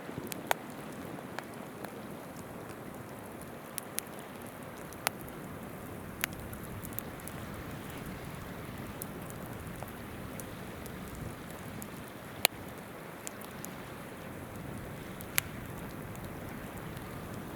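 Wood campfire crackling, with scattered sharp pops, a few of them loud, over the steady rushing of a river's flowing water.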